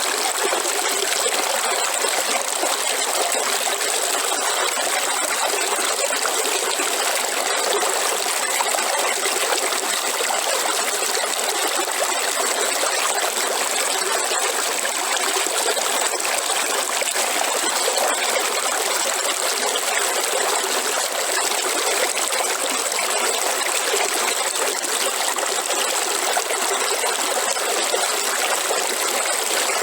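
Waterfall: water falling and splashing in a steady, unchanging wash of noise. It is mostly hiss and splash, with little deep rumble.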